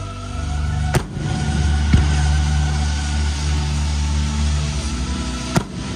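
Fireworks shells bursting with sharp bangs, three times (about a second in, two seconds in and near the end), over the show's music holding a deep, sustained bass drone.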